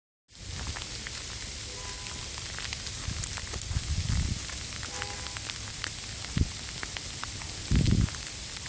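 Steady outdoor hiss of a snowstorm, wind and falling snow or sleet, with many scattered small ticks. A few short low thumps of wind on the microphone come near the middle and end.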